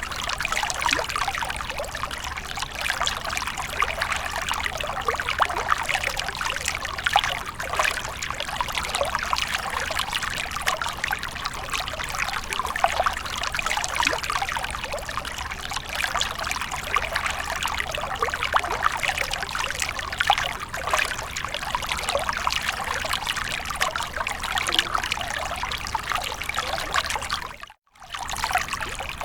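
Fountain water splashing and trickling steadily, with a brief break in the sound near the end.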